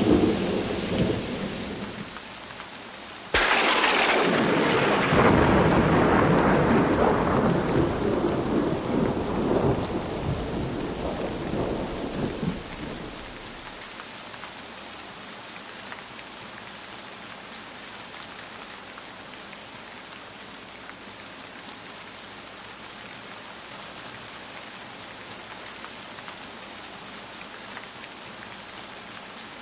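Steady rain with a thunderclap: a sudden loud crack about three seconds in, rumbling away over the next ten seconds, after which only the even hiss of rain is left.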